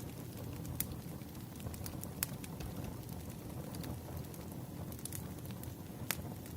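Crackling wood fire: a steady low rumble with irregular sharp pops and snaps, the loudest about a second, two seconds and six seconds in.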